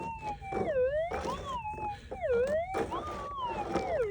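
Minelab GPX 6000 metal detector's audio from its speaker: a wavering tone that dips sharply in pitch and climbs back three times, about every one and a half seconds, as the coil is swung back and forth. It is a target response over the scraped bedrock, which the detectorist reads as promising.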